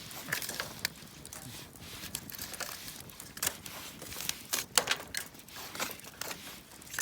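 Wood campfire crackling: irregular sharp pops and snaps, one of the loudest about three-quarters of the way through.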